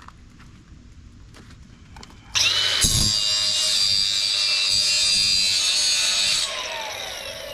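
Angle grinder switched on about two seconds in and cutting metal with a loud, steady high whine for about four seconds, then released and spinning down with a falling pitch.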